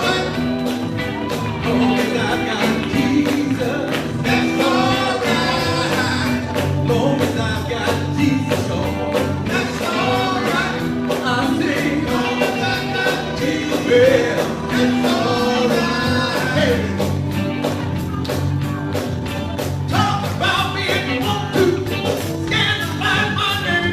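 Live gospel music: a vocal group singing with a band, over a steady drum beat and bass.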